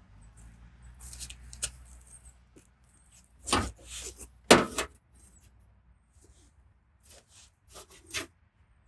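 Irregular sharp clicks and knocks of metal hand tools working a dented car panel during paintless dent repair, the loudest pair of knocks about three and a half and four and a half seconds in.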